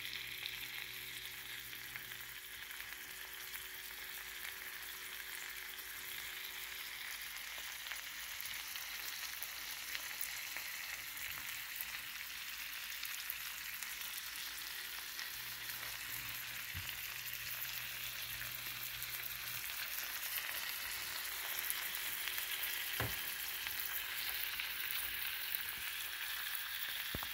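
Salmon fillets frying in butter in a pan: a steady sizzle with fine crackles as the buttery glaze bubbles around the fish.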